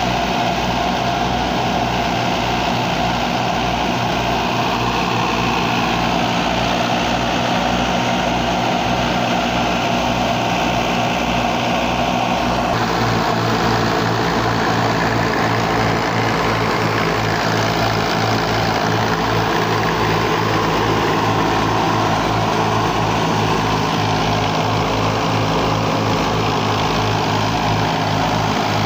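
Fiat 480 tractor's diesel engine running steadily under load while driving a thresher, with a regular low pulsing beat. The engine note shifts slightly about halfway through.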